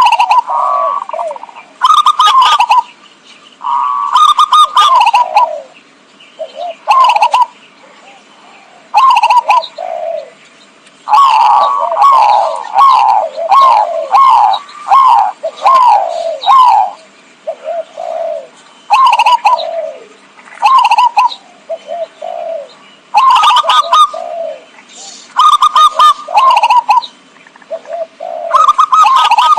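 Zebra dove cooing: repeated phrases of quick, pitch-dropping notes with short pauses between them, and one long fast run of notes about halfway through. It is a lure call, played to draw in wild zebra doves.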